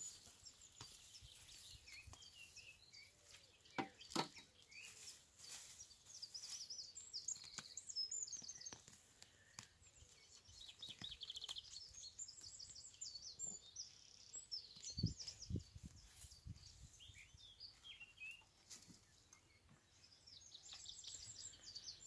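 Small birds singing with repeated high trills and chirps. Now and then there is a faint scrape or knock from gloved hands working roots out of dry soil.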